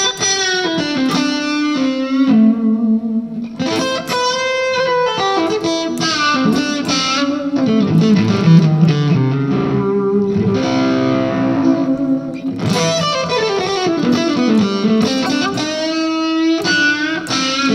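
Electric guitar played through a 2-watt amplifier built around a single 6AF11 Compactron valve, boosted by a Wampler Tumnus Klon-style booster pedal, with a Strat's single-coil neck pickup. It plays single-note phrases, held notes and chords, with a falling run about two-thirds of the way through.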